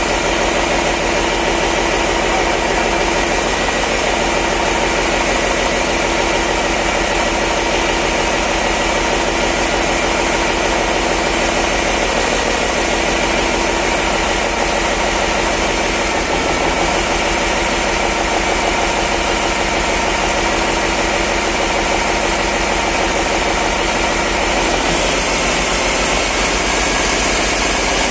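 Cummins NT855 inline-six diesel engine running steadily at idle, freshly rebuilt after a major overhaul.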